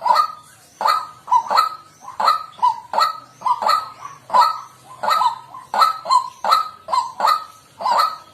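White-breasted waterhen calling: a steady, unbroken series of loud 'kwak' notes, about two to three a second, many coming in quick pairs.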